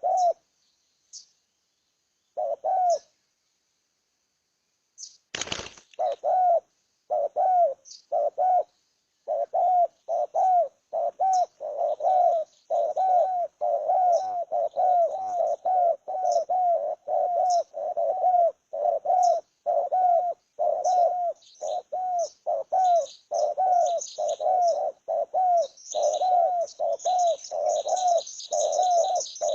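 Birds calling: a short, arched, mid-pitched call repeated over and over, about two a second once it gets going, with thin high chirps above it that grow busier near the end. After a brief lull early on, a single sharp click comes about five and a half seconds in.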